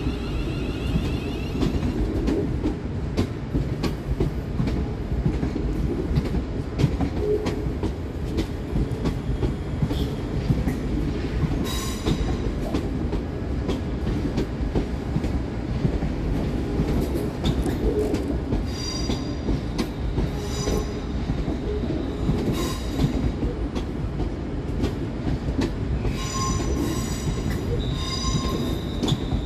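Two coupled Class 350 Desiro electric multiple units pulling out, a steady rumble of wheels on the track with short high-pitched wheel squeals about twelve seconds in, around twenty seconds in, and again near the end.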